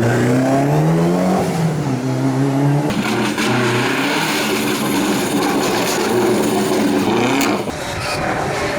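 Rally car engines at full throttle: the revs climb in the first second and a half and hold, then the sound changes abruptly about three seconds in to an engine whose revs rise and fall as it is driven hard.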